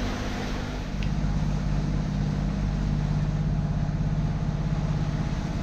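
A catamaran's single engine running steadily under way, a low even hum that grows a little stronger about a second in.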